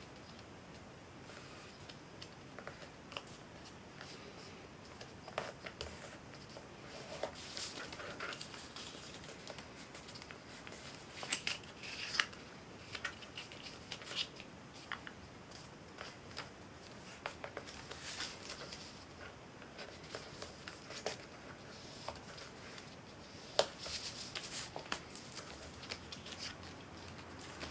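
A sheet of paper being folded and creased by hand: irregular rustles, crinkles and short sharp swipes as the folds are pressed down.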